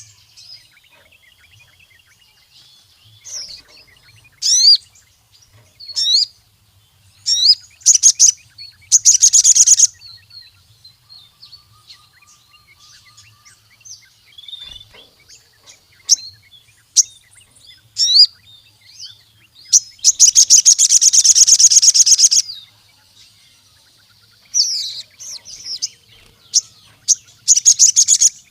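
Sogon (crimson sunbird) singing: high, sharp chirps and quick rising notes in short phrases, with one long rapid trill of about two and a half seconds past the middle.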